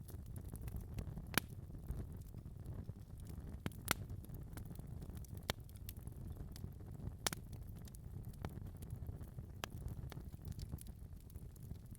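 Fire burning in a fireplace: a steady low rumble of flames with sharp crackles and pops every second or two, the loudest pop about four seconds in.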